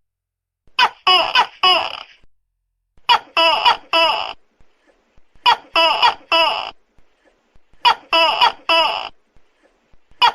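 Tokay gecko calling: loud groups of three sharp, pitched barks, each group alike and repeating about every two and a half seconds, four groups in all.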